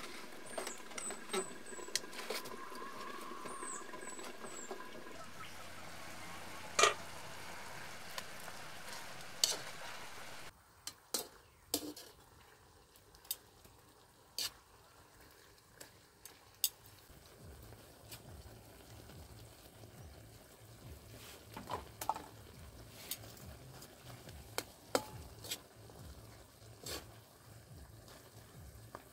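Pork frying in a wok over a wood fire: a steady sizzle, then, after a sudden drop, a quieter simmer with sharp clicks of metal tongs against the wok as the pieces are turned. A few short bird chirps in the first few seconds.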